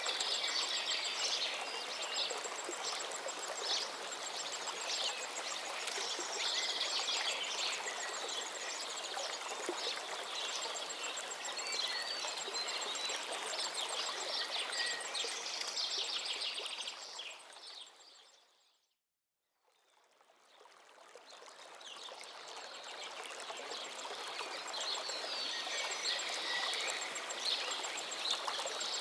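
Lakeside ambience: a steady rushing hiss with many small birds chirping and trilling over it. About two-thirds of the way through, everything fades out to silence for a moment and then fades back in.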